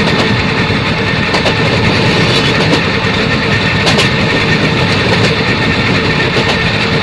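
A vehicle engine running steadily, with a few short clicks and knocks over it.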